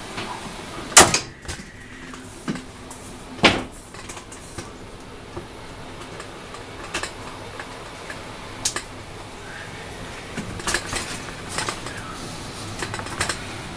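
Train carriage rolling slowly: a steady low running noise broken by irregular sharp clanks and knocks, the loudest about a second in and a cluster near the end.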